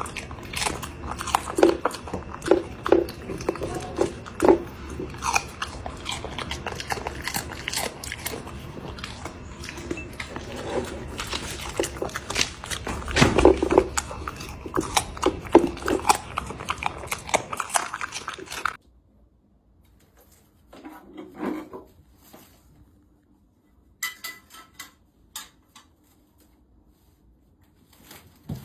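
A cat chewing and crunching food close up, with many quick, irregular crunches. After about nineteen seconds it cuts off to near quiet, with only a few faint small sounds.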